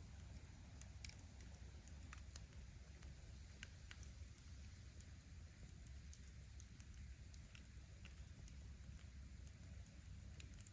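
Wood bonfire crackling faintly: scattered small pops and snaps of burning firewood at irregular intervals over a steady low rumble of the fire.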